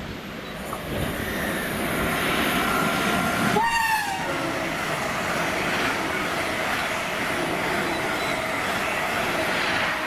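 Class 350 electric multiple unit passing at speed, with steady rumbling wheel and rail noise and some clickety-clack. A train horn gives one short, slightly falling toot about three and a half seconds in.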